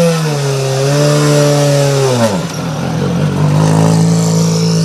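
Rally car engine revving hard and holding high revs, then the pitch falls steeply about two seconds in. After that it settles into a lower, steady run.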